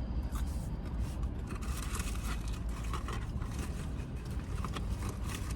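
Food packaging rustling and scraping in short irregular bits over a steady low rumble.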